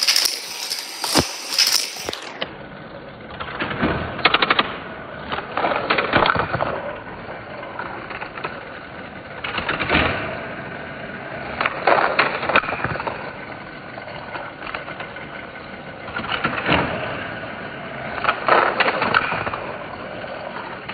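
Hard plastic toy racetrack and die-cast karts clattering: bursts of rapid clicks and rattles every couple of seconds, with handling noise in between.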